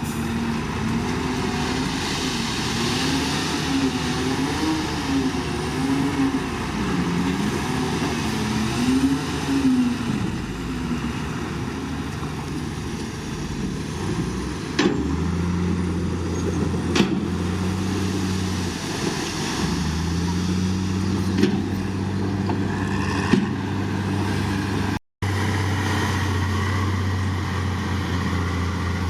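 Heavy diesel engines of earthmoving machinery working. The engine note rises and falls at first, then settles into a deep steady drone about halfway through, with a few sharp metal clanks. The sound drops out briefly near the end.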